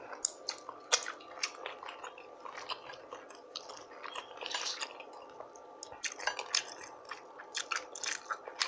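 A person chewing a mouthful of food close to the microphone, with wet smacking clicks from the lips and mouth. The clicking is thickest in the last few seconds.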